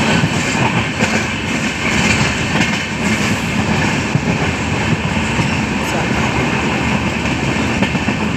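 Steady running noise of a moving vehicle, heard from on board: a continuous rumble and rush.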